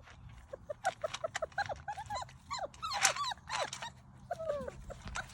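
Young puppies of a Boerboel, Kangal and Central Asian Shepherd livestock-guardian cross whining and yelping: many short, high-pitched cries in quick succession, often overlapping.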